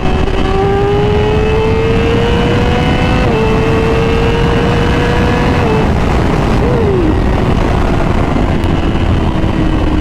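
Yamaha R6 inline-four on a Graves exhaust, pulling at high revs. The engine pitch climbs, drops with a quick upshift about a third of the way in, climbs again and drops with another shift just past halfway. After a brief throttle blip the revs fall steadily as the bike rolls off, with wind rushing over the mic.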